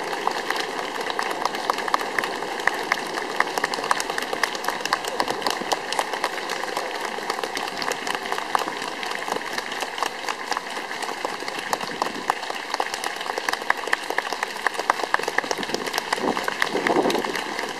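A crowd clapping steadily, many hands at once in a dense, even patter.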